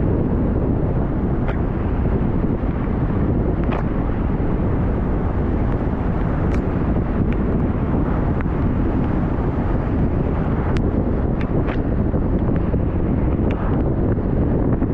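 Steady low rumble of a car driving in rain, with wind on the microphone and scattered sharp ticks of raindrops striking the car.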